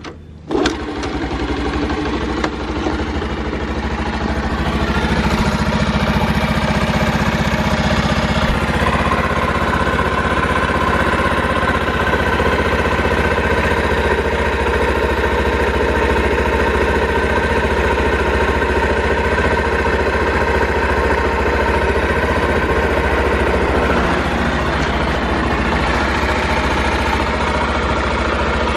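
Honda Super Cub 50 FI's small four-stroke single-cylinder engine starting about half a second in and settling into a steady idle, with no abnormal noise according to the seller.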